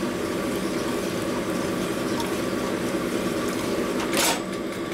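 A honing machine runs steadily while a panhead rocker arm's shaft bore is stroked on the hone to true it up. There is a brief hissing burst about four seconds in.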